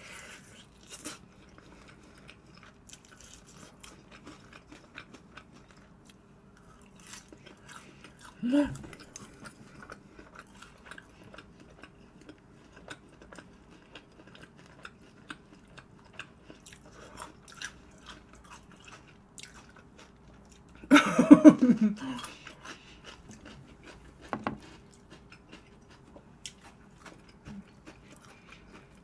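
Close-miked biting and chewing of crispy fried chicken, with many small crackling crunches of the coating. Two brief louder sounds with a pitch to them, one about eight seconds in and a longer one about 21 seconds in, sound like short vocal noises while eating.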